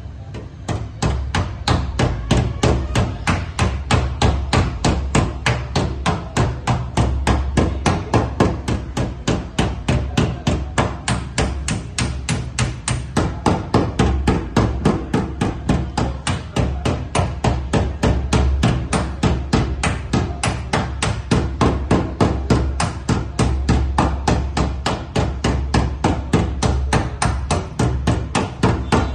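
Steady hammering, about three blows a second and evenly paced, over a low steady hum.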